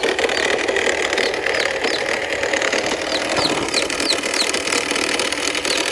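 A steady engine-like running sound, with short high chirps repeating over it.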